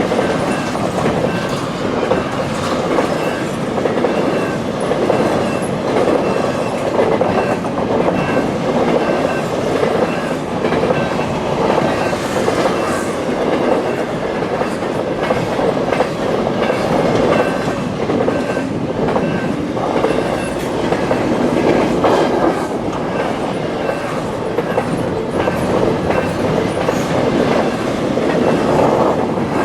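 CPKC freight train rolling steadily past a level crossing, its wheels clacking over the rail joints, with the crossing bell ringing in a steady repeating pattern behind it.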